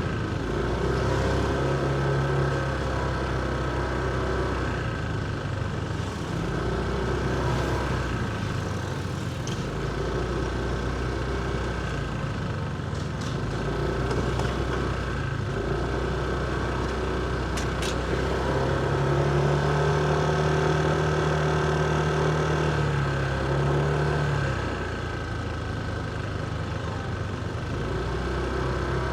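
Motorcycle engine running at low road speed, its pitch stepping up and down as the throttle changes, with a few short clicks in the middle.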